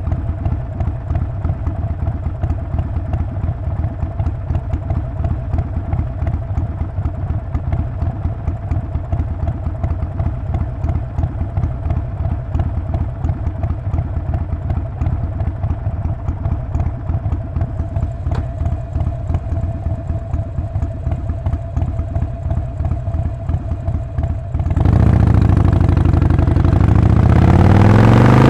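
Harley-Davidson Sportster 48's air-cooled 1200 cc V-twin idling with an even pulsing beat. About 25 seconds in, the throttle opens and the engine gets suddenly louder, rising in pitch as the bike accelerates away.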